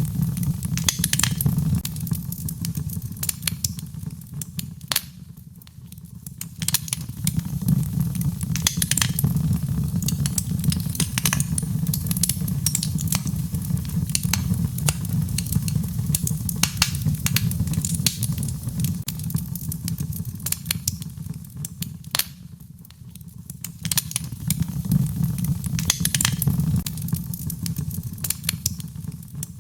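Wood fire crackling, with frequent sharp pops and snaps over a steady low rumble of the flames; the rumble dips twice, briefly.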